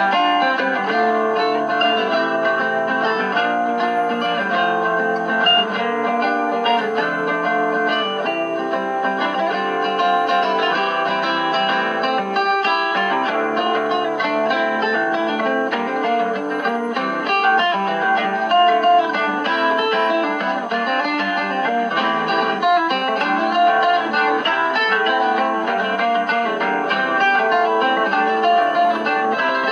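Live guitar playing heard through a five-tube superheterodyne AM radio kit's speaker, a steady run of plucked notes. The radio reproduces it thinly, with no deep bass and little treble.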